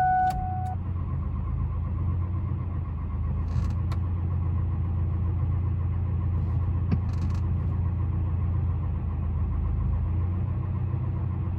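7.3 L Power Stroke diesel engine running steadily at high idle, a low even drone. A high electronic buzz cuts off under a second in.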